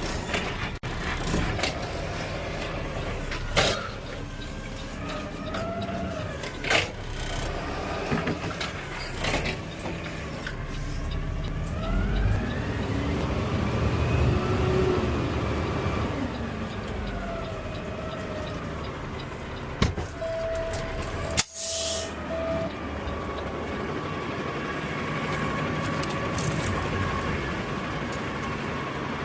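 Automated side-loader garbage truck running, its engine pitch rising and then falling through the middle, with scattered knocks and rattles. A short hiss of air comes about two-thirds of the way in.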